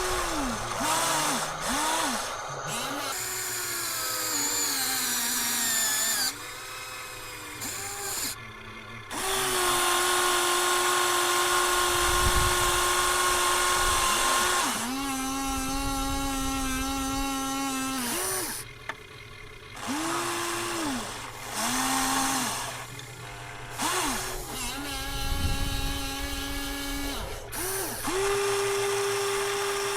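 Small electric motors of Huina radio-controlled construction models whining in repeated runs. Each run rises in pitch as it starts and drops as it stops. Some are short blips and a few hold steady for several seconds.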